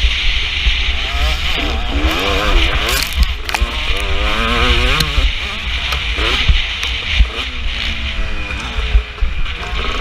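KTM 250 SX two-stroke motocross engine revving, its pitch rising and falling again and again as the throttle opens and closes, with heavy wind buffeting on the microphone.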